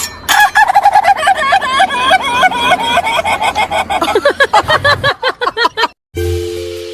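A bird giving a rapid run of short, pitched calls, about five a second, that stops about five seconds in. Steady held tones of music start near the end.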